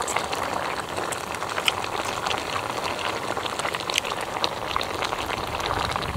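Hotpot broth bubbling at a steady boil in the pot, with many small scattered pops.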